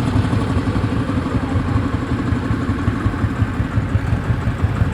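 An engine running steadily with a fast, even low-pitched pulse.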